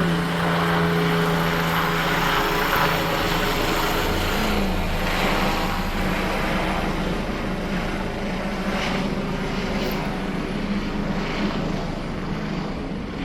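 Police helicopter flying past, a steady rotor and engine drone that grows slowly quieter.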